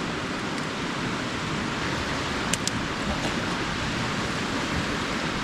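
Steady rushing of flowing creek water, with two faint clicks about two and a half seconds in.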